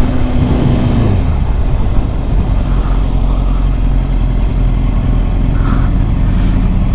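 Motorcycle engine under way, its note dropping about a second in as the revs fall, then running steady at lower revs, with wind rushing on the microphone.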